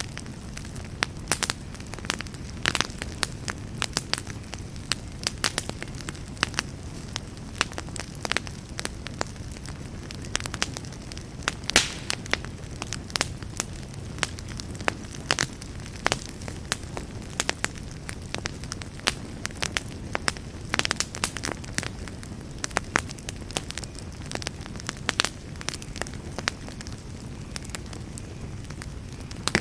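Wood campfire burning: a steady low rush of flames with irregular sharp crackles and pops from the burning wood, several a second.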